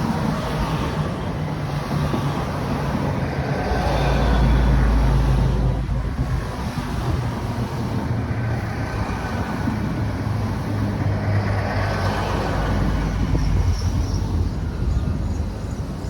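Diesel train at the platform, its engines running with a steady low note, swelling loudest about four to six seconds in.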